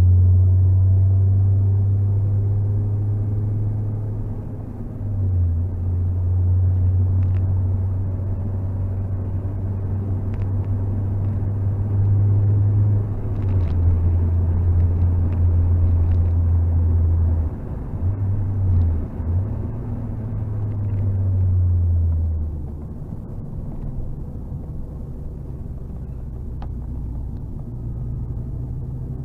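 Mazda MX-5 NC's 2.0 four-cylinder engine and aftermarket exhaust, heard from inside the cabin while lapping a race track: a loud, steady low drone with short dips about five, thirteen and eighteen seconds in as the driver shifts or lifts, and quieter after about twenty-two seconds.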